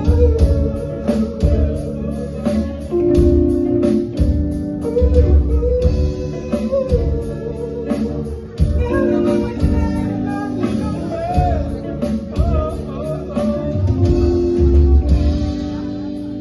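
A live band plays an instrumental passage of a gospel song, with a steady drum beat, bass, guitar and sustained keyboard chords, before the vocals come in.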